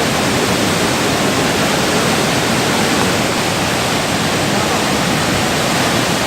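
Loud, steady rushing of water.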